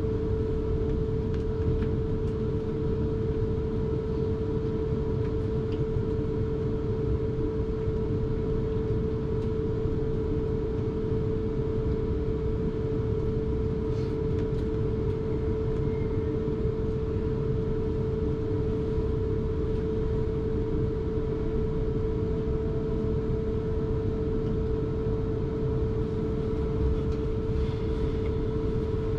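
Electric suburban train running at a steady speed, heard from inside the carriage: a constant rumble of wheels on rails with a steady whine held at one pitch, and a few sharp clicks near the end.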